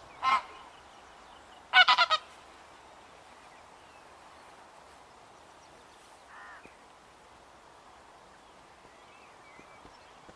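Honking bird calls: a short one at the start, a louder run of three or four quick honks about two seconds in, and a faint one about six seconds in. Faint small-bird chirps come near the end.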